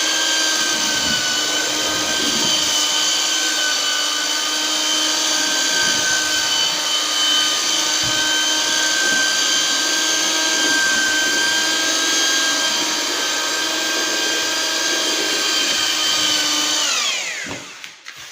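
Electric drill with a mixing paddle running steadily, churning a batch of sand-cement mortar with adhesive, plasticiser and fibre. Near the end the motor is released and winds down with a falling whine.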